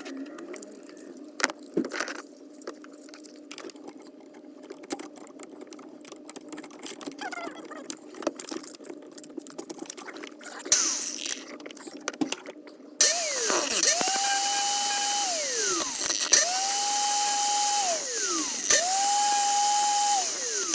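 Light clicks and handling noises, then a handheld electric power tool run in four short bursts starting about two thirds of the way in. Each time the motor spins up to a steady whine, holds for a second or two, then winds down.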